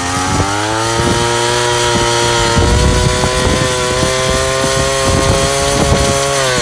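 Small petrol engine speeding up over the first second, running steadily at high revs, then slowing and stopping near the end, with a steady hiss of wind behind it.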